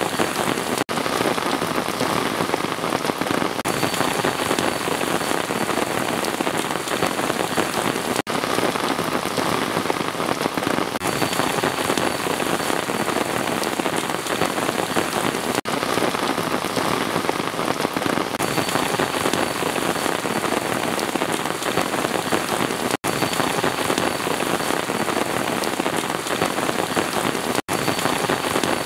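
Steady rain falling and pattering on a surface, an even, continuous hiss broken by a few momentary dropouts.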